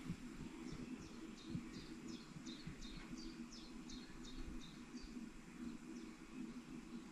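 A songbird singing a fast run of short, high, downward-sweeping notes, about three a second, which stops about five seconds in. A low steady hum runs underneath.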